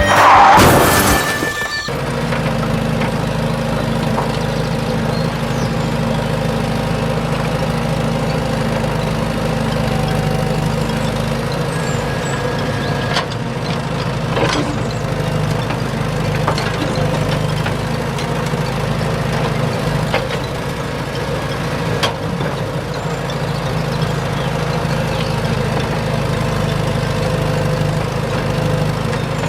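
Heavy diesel engine running steadily, with a few brief knocks. A short loud burst of noise comes in the first two seconds.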